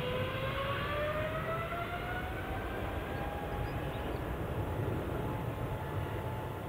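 Jet airliner engines spooling up, a whine rising in pitch over the first few seconds and then holding steady over a low rumble, as thrust builds.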